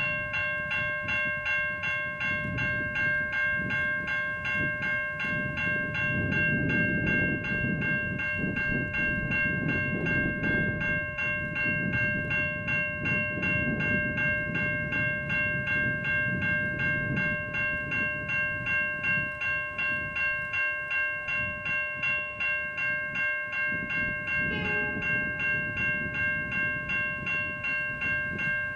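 Safetran Type 3 electronic level-crossing bells ringing continuously in fast, even strokes, the crossing's warning that a train is approaching. A low rumble runs underneath.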